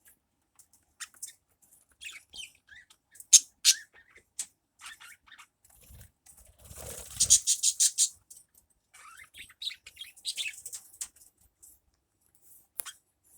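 Small birds chirping in short, high calls, with a louder run of rapid repeated chirps about seven seconds in.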